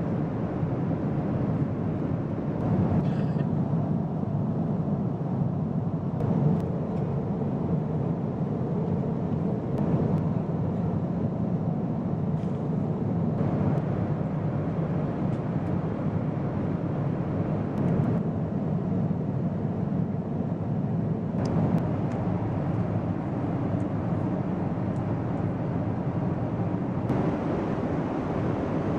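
Steady low rumble of a Boeing 777's engines and airflow heard inside the passenger cabin, with a few faint clicks.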